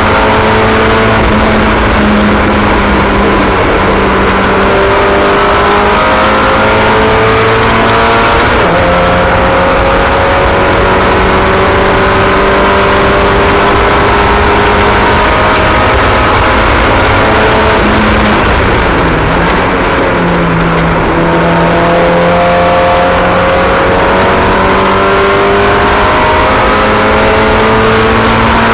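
Several racing car engines running at once on track, loud and continuous, their overlapping pitches rising and falling as the cars accelerate and lift.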